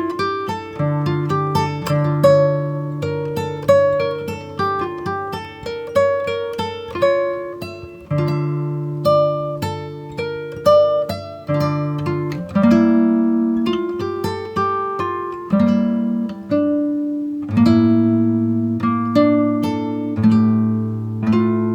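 Background music on a plucked guitar: picked notes that ring and fade over changing bass notes.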